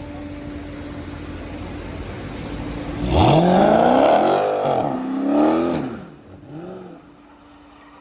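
Car engine idling, then revved hard about three seconds in: a sharp rising rev, a second rev, and a short blip before it settles back to idle.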